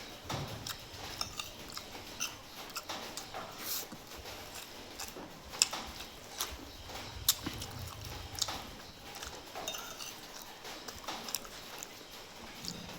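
A person chewing and biting food: irregular clicks and smacks of eating, a few of them louder about halfway through.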